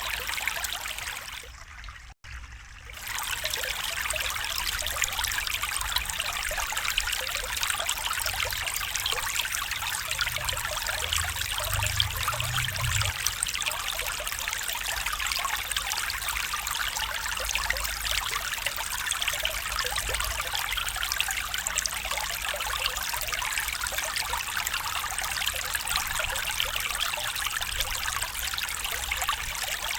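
A stream trickling and running steadily. The sound briefly drops away about two seconds in, then comes straight back.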